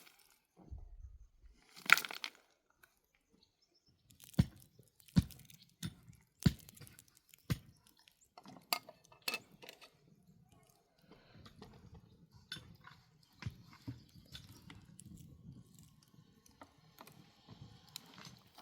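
Irregular sharp knocks and clicks, about eight over several seconds, then a stretch of softer rustling and scraping: close-up handling of materials.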